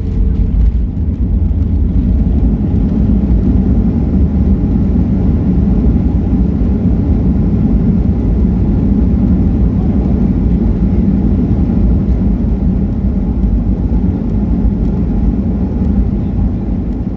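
Steady, loud cabin noise of a Boeing 737 airliner's jet engines and rushing air, heard from a passenger seat as the aircraft comes in to land.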